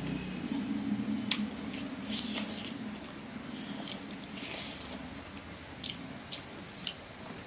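Close-miked eating sounds of pork and rice eaten by hand: wet chewing and lip smacks, with sharp smacking clicks scattered through and the squish of fingers mixing rice.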